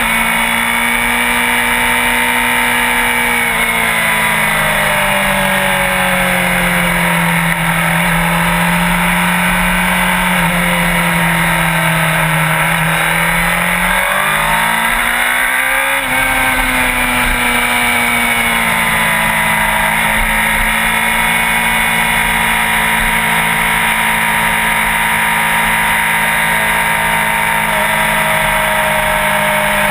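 Sport bike engine running while riding, its pitch sinking slowly for several seconds, then climbing quickly about 14 seconds in and holding steady after. A constant rushing noise lies underneath.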